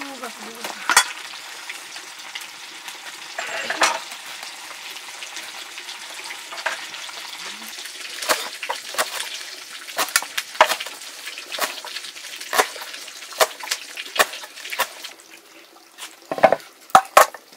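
Food sizzling as it fries in a pan, with a utensil stirring it and clacking against the pan. Near the end the sizzle thins and a few louder knocks stand out.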